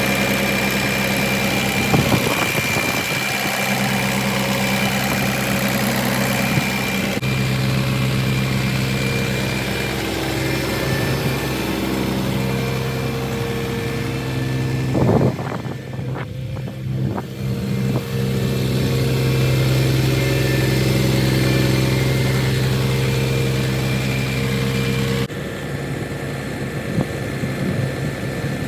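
Diesel engine of a 2005 Mack Granite dump truck running steadily, its sound changing abruptly twice, with a couple of short knocks.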